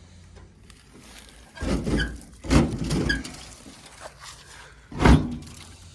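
Metal clunks and thunks with short squeaks from the old VW pickup's body being handled: three loud knocks, the first two close together with brief squeaks, the third about five seconds in.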